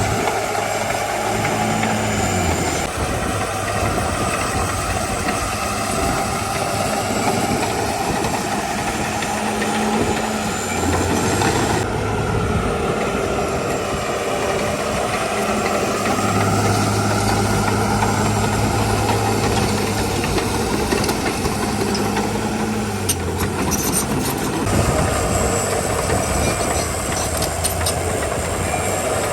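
Diesel engine of a Komatsu D41E bulldozer running under changing load, its note stepping up and down several times, with a few sharp clanks in the second half.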